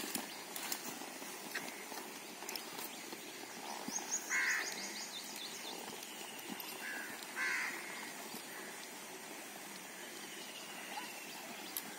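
Birds calling: a few short, harsh calls about four and seven seconds in, the first with a quick run of high chirps.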